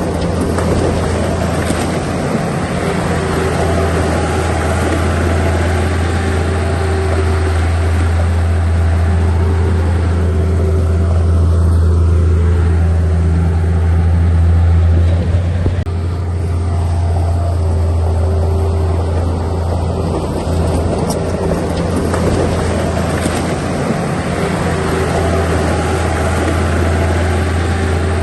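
Heavy-equipment diesel engine running steadily under close microphone, growing a little louder about halfway through and easing off briefly just after.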